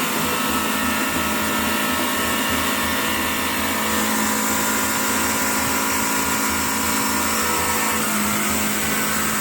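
Heavy truck engine running hard and steady, with a whine over its rumble.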